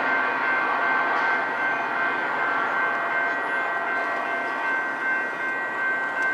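Metra commuter train running past, pushed by its diesel locomotive, with rolling noise and steady high ringing tones over it, fading gradually as the train moves away.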